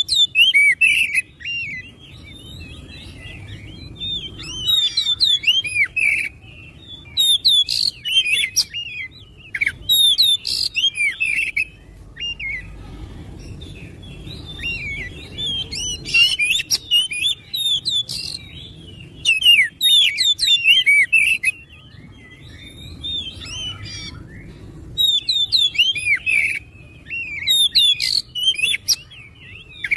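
Oriental magpie-robin singing a fast, varied song of whistles and chirps. The song comes in bursts of a few seconds broken by short pauses.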